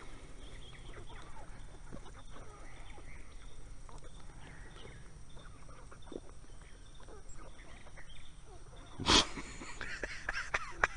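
Backyard chickens and ducks feeding on grain, with faint short clucks and pecking sounds throughout. About nine seconds in comes one loud sudden burst, followed near the end by a quick run of short sharp sounds as the birds squabble over the food.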